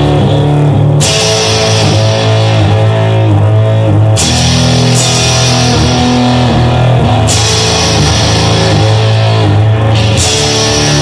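Rock music with distorted electric guitar, bass and drum kit playing a loud instrumental section, with no singing.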